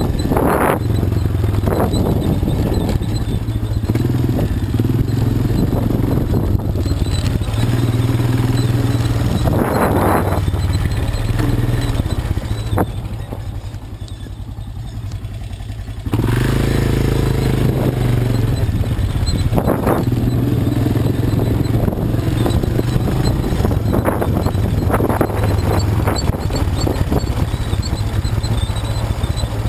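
Quad bike (ATV) engine running as it rides off-road. It drops quieter for a few seconds near the middle, then comes back at full level all at once.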